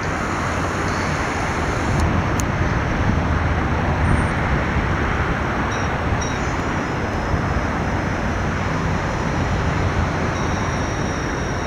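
Steady roar of a Boeing 777-200's engines and airflow in the initial climb just after takeoff, heard from inside the cabin.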